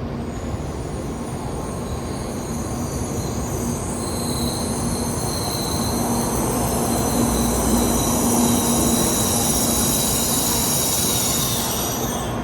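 A Shinkansen bullet train moving along the platform with a steady rumble. Several high-pitched whining squeal tones build from about four seconds in and fade away near the end.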